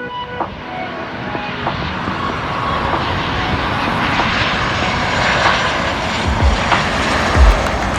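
Airliner engines running, a dense roar that builds steadily louder as the aircraft nears.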